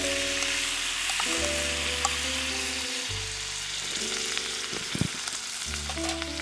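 Food sizzling in a frying pan, a steady hiss with a few small ticks and a knock about five seconds in, under background music of held chords.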